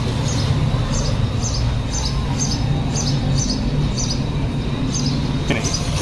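A small bird chirping repeatedly, short high chirps about twice a second, over a steady low background rumble.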